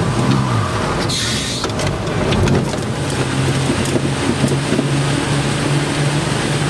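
Car engine driving on a wet track in heavy rain, its pitch dipping then climbing in the first second before holding steady, over a constant wash of rain and spray noise. A brief burst of hiss comes about a second in.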